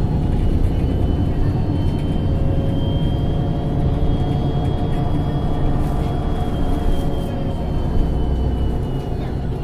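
LPG-fuelled MAN NG273T4 articulated bus running under way, a steady low engine drone with a thin high whine that rises slightly and then falls away near the end.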